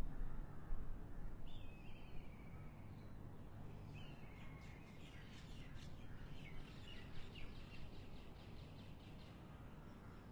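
Birds calling and chirping, with a quick run of repeated chirps from about four to nine seconds in, over a low steady background rumble.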